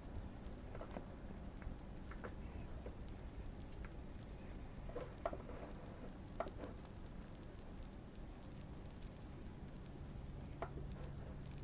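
Faint fire crackling: a steady soft hiss with irregular tiny pops. A handful of isolated, slightly louder soft clicks stand out, about halfway through and near the end.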